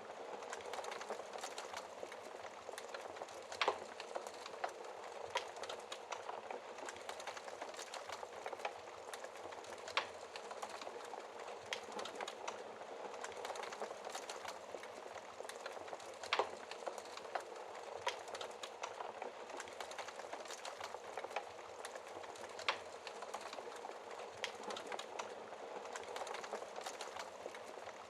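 Wood fire burning in a fireplace: a steady soft hiss with irregular crackles and a few sharper pops from the burning logs.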